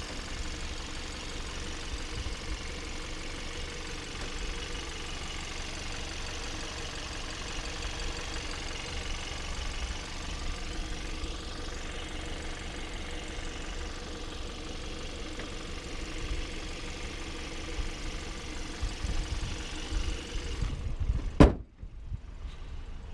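2015 Hyundai Tucson's engine running steadily, with a low rumble underneath. Near the end comes a single sharp knock, after which the sound drops quieter.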